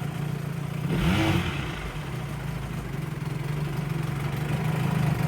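1975 Johnson 25 hp two-cylinder two-stroke outboard running in a test tank, with a brief surge about a second in and the engine getting louder toward the end.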